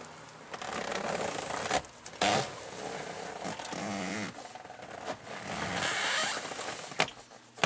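Scraping and rustling from parts being handled and moved, with several sharp knocks along the way.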